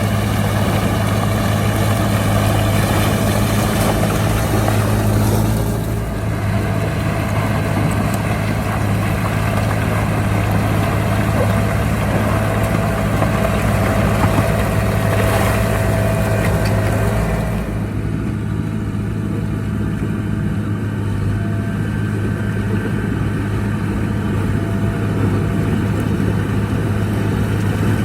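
Heavy diesel engine of earthmoving machinery running steadily, a constant low hum whose upper noise changes abruptly about six and eighteen seconds in.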